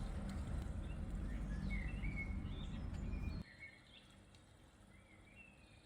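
Small birds chirping in short, repeated calls, over a low rumble that cuts off suddenly about three and a half seconds in.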